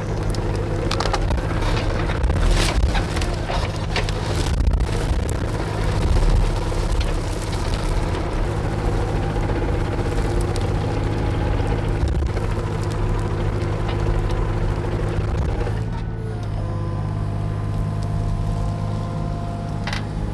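Excavator's diesel engine running steadily while brush and small trees are crushed and broken, with repeated cracks and crunches of snapping wood.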